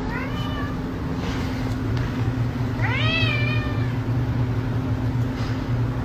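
Domestic cat meowing: a short falling meow at the start and a longer, louder meow about three seconds in, over a steady low hum.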